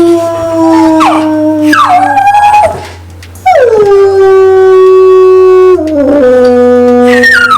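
Old English Sheepdogs howling: long held notes, two voices at different pitches overlapping, each note sliding down in pitch at its end. There is a short break about three seconds in, and a fresh howl starts near the end.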